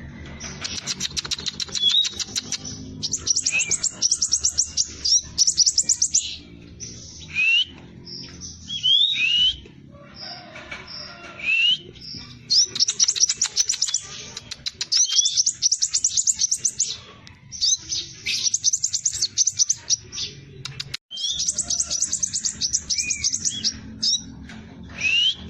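Scarlet minivet (sepah raja) singing. Bursts of fast, tightly packed high trills alternate with short rising whistled notes, in several phrases, with a low steady drone underneath.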